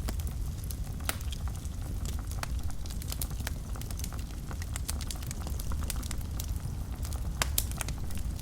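Wood fire burning in a fireplace: a steady low rumble of flames with frequent sharp crackles and pops, a cluster of louder pops about seven and a half seconds in.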